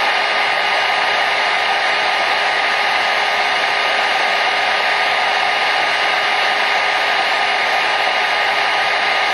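Hair dryer running steadily: an even, unchanging rush of blowing air with a faint steady motor hum.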